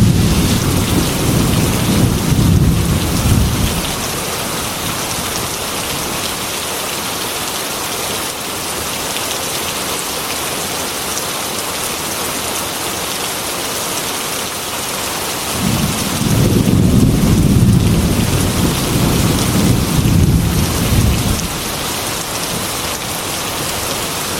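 Heavy rain hissing steadily against a glass window, with low rolling thunder twice: a long rumble at the start that fades after about four seconds, and another lasting several seconds in the second half.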